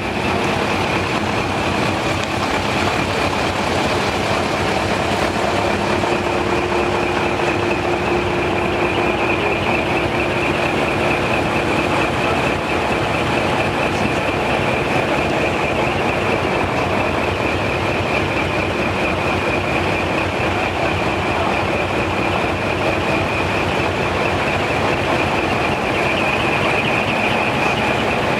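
Heavy diesel trucks' engines running, a steady dense rumble with a constant high-pitched whine over it.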